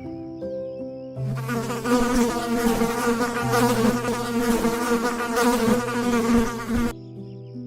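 Insect buzzing, starting about a second in and stopping shortly before the end, over a soft background tune.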